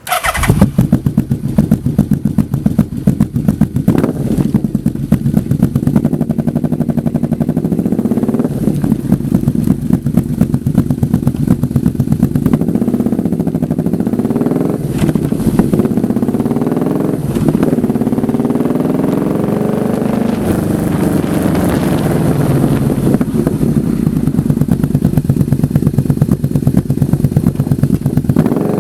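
Yamaha V-Max V4 motorcycle engine and exhaust running loud, its pitch rising and falling again and again as the engine is revved up and eased off.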